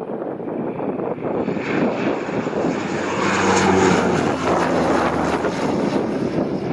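Aircraft engines passing close by. The loud rushing noise swells to a peak a few seconds in, with a low steady hum at its loudest, then eases slightly.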